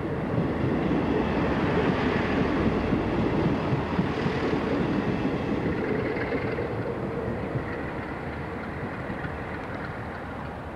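Train noise: a steady rumble that swells over the first few seconds, peaks, then slowly fades.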